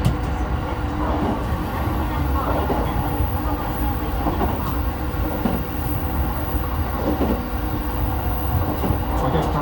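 Running noise heard inside an E217 series electric commuter train car: a steady rumble of wheels on rail, with an occasional click over the rail joints.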